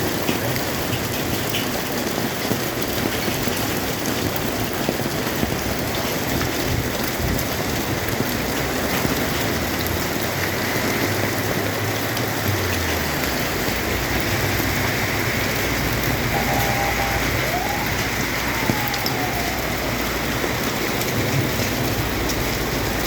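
Steady rain falling, an even hiss of drops, with a low hum coming in about halfway through.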